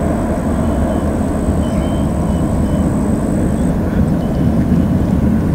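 Steady low rumble of a Boeing 767-424ER's GE CF6 turbofan engines on departure.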